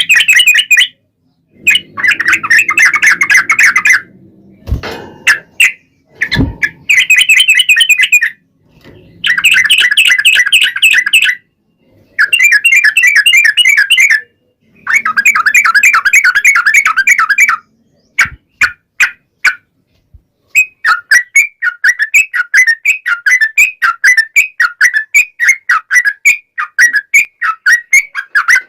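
Yellow-vented bulbul singing: repeated bursts of rapid chattering notes, each a couple of seconds long with short breaks between, then a steady run of quick notes, about four a second, in the last third. Two sharp knocks come about five and six and a half seconds in.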